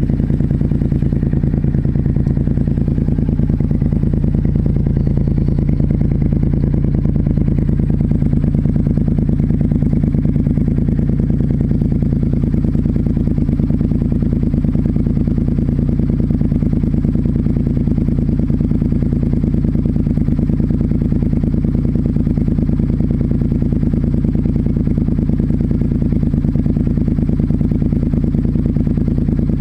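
Suzuki Intruder Classic 400 V-twin idling steadily through a Kentec 2-into-1 aftermarket muffler, with a low-pitched exhaust note.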